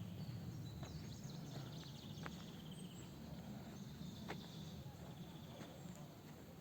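Faint outdoor ambience: scattered high bird chirps and short ticking calls over a steady low rumble.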